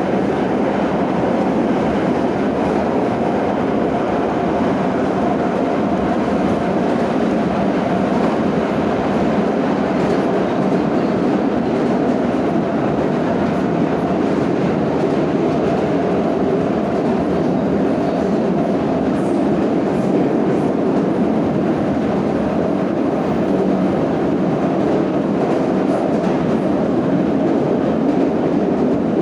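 Moscow Metro 81-717/714 ('Nomernoy') subway train running steadily between stations, a loud, even rumble of wheels on rail with no change in pace.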